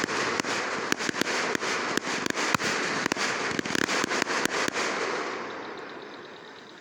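Fireworks going off: a dense hiss full of quick irregular pops and cracks, several a second, that dies away over the last couple of seconds.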